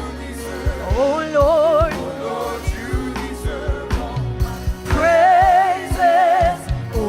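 Live gospel worship music: a singer holds long notes with vibrato over bass and a steady drum beat, with choir voices behind.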